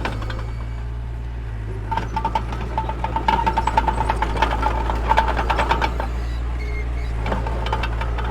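Mini bulldozer's diesel engine running steadily, with rapid metallic clattering from about two seconds in until about six seconds in.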